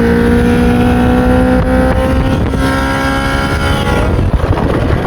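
Fishing boat's outboard motor running under way, its pitch slowly rising over the first couple of seconds and then holding steady. About four seconds in the engine note falls away and a rough rushing noise takes over.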